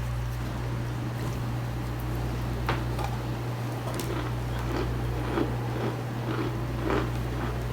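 Starch being crunched: a series of short, crisp crunches, about one or two a second from roughly three seconds in, over a steady low electrical hum.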